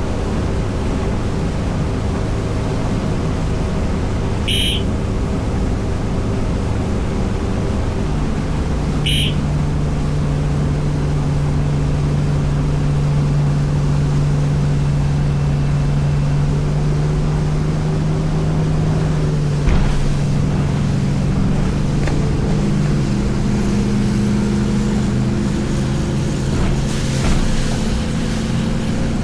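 Motorboat running under way: a steady engine hum over rushing water and wind, its pitch changing slightly twice. Two short high chirps come about five and nine seconds in.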